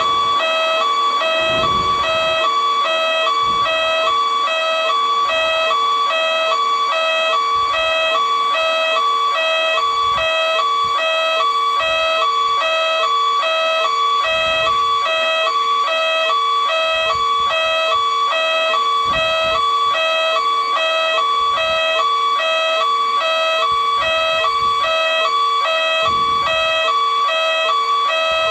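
Railroad crossing warning bell ringing over and over in a steady repeating pattern of two alternating tones, signalling an approaching train. Faint low rumbles come and go beneath it.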